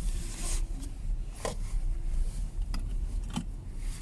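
Steady low rumble of a car driving, heard from inside the cabin, with a short hiss at the start and a few light clicks.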